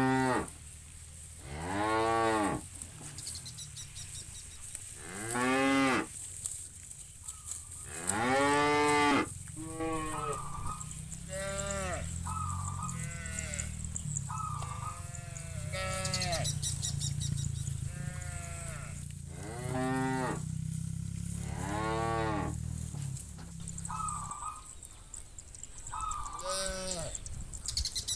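Cattle in a herd mooing again and again, about a dozen long calls that rise and fall in pitch, with shorter, higher calls mixed in between. A low rumble runs under the calls through the middle stretch.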